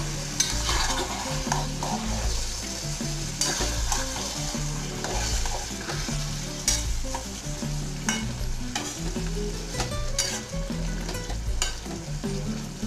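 Metal spatula stirring and scraping through cabbage and fish-head curry in a metal kadai, with irregular clinks against the pan, while the wet curry sizzles in hot mustard oil.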